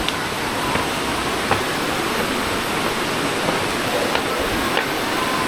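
Steady rush of a rocky forest river running over small cascades, with a few faint knocks.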